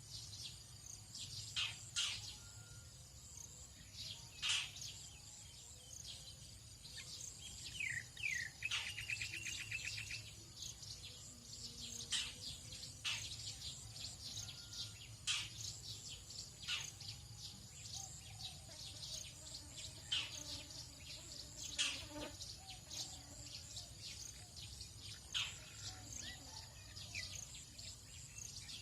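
Tropical dawn chorus: birds giving short, sharp calls that sweep down in pitch every second or two, with a rapid trill about a third of the way through, over a steady high drone of insects.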